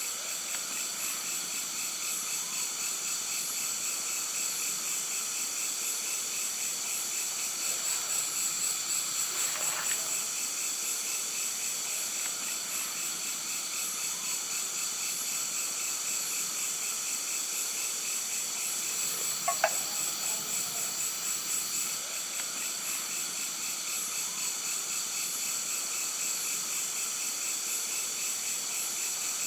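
Steady chorus of insects trilling in several high, rapidly pulsing tones. Two brief clicks cut through it, the louder about two-thirds of the way in.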